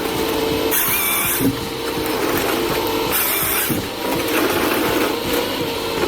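Wood-processing machinery working: a steady machine hum with a hissing burst about every two and a half seconds.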